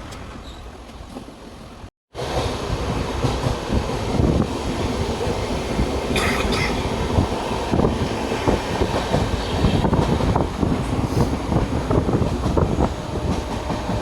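Passenger train running, heard from on board: a steady rumble with wheels clattering over the rail joints. The sound cuts out briefly about two seconds in and comes back louder.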